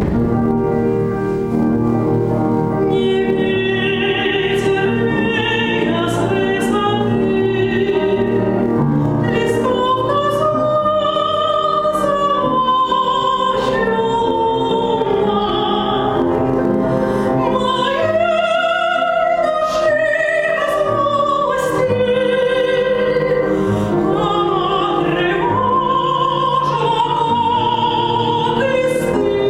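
A Russian classical romance for voice and piano: a brief piano opening, then from about three seconds in a trained operatic female voice sings long, vibrato-laden phrases over the piano accompaniment.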